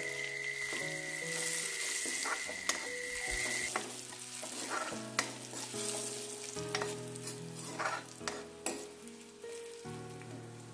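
Chopped garlic, fenugreek seeds and turmeric sizzling in hot oil in a kadai while a steel spoon stirs them. A few clinks of the spoon against the pan are heard.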